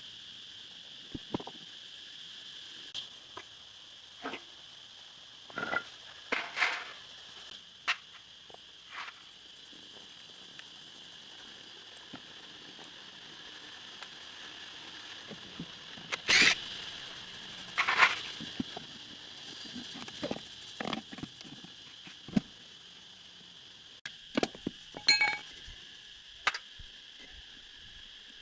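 Scattered short clicks and knocks, the loudest two about halfway through, over a steady high insect chorus of crickets or cicadas.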